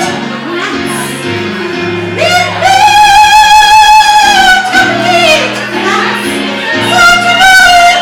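A male singer in a high, operatic soprano falsetto, holding long high notes with vibrato over an instrumental backing track.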